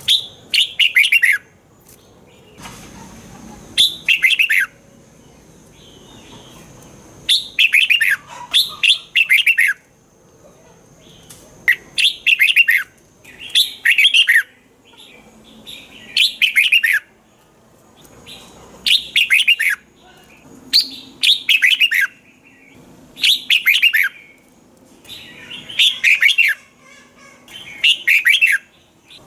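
Red-whiskered bulbul singing: short, loud phrases of quick falling notes, repeated about every two seconds.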